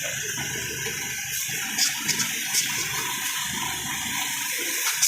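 Water spraying onto a truck during a wash: a steady rushing hiss, with a few brief sharper spits about halfway through.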